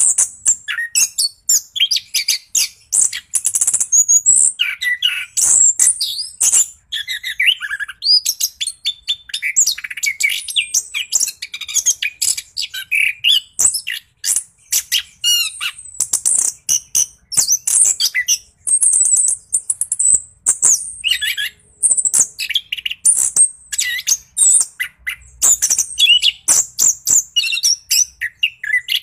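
Orange-headed thrush singing without a break, a fast, rolling stream of varied chirps, whistles and trills: the full 'gacor ngeroll' song of a bird in top singing form.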